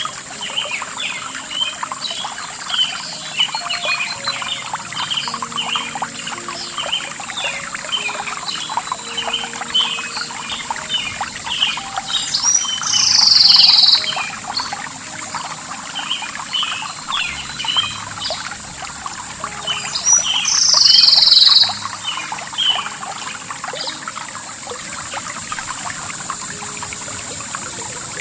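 Birds chirping in a nature soundscape: many short chirps throughout, with a louder call about a second and a half long that comes back roughly every eight seconds, over a steady high-pitched drone.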